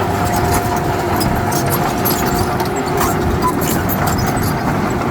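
Heavy diesel earthmoving machine running steadily, with a steady whine and scattered light clicks and clatter over the engine noise.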